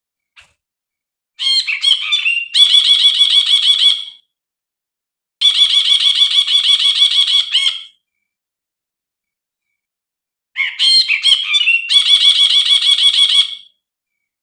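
Brinji (a bulbul) calling in three bursts. Each burst is a few quick, sliding notes that run into a fast, even rattling trill of a second or two. The calls are a recorded lure (pancingan) played to provoke a silent brinji into singing.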